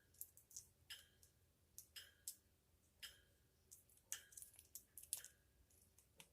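African grey parrot's beak giving soft, irregular clicks and nibbles while it preens its feathers, about twenty small clicks, some with a faint chirp.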